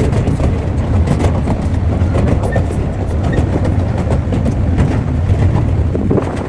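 Small park train running along its track: a steady low rumble of the carriages with irregular clicks and clacks from the wheels over the rails. The footage is sped up.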